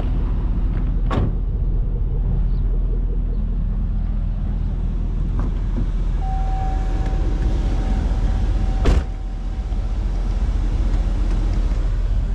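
Chevrolet SSR's 6.0-liter LS2 V8 idling steadily. A click comes about a second in, a steady electronic tone sounds for a few seconds from about six seconds in, and a single sharp thump, the loudest sound, comes about nine seconds in.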